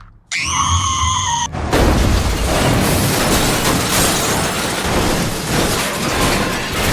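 Car crash sound effect: a high, pitched screech lasting about a second, then a loud crash that runs on as a long, rough roar of noise.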